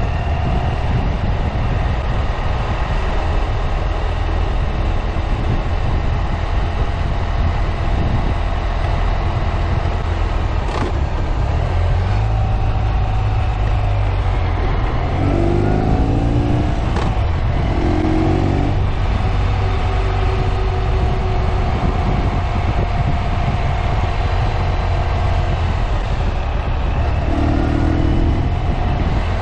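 Ural sidecar motorcycle's air-cooled boxer-twin engine running steadily under way, with wind and road noise. The revs rise briefly a few times, about halfway through and again near the end, as the throttle opens through the bends.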